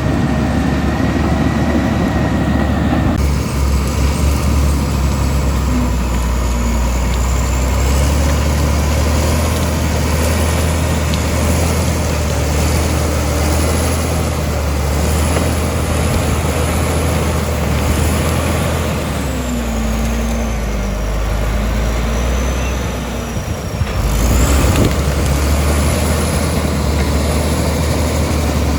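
Komatsu D65E bulldozer's diesel engine running under load, a steady deep rumble. Near the end it briefly dips and then picks up again.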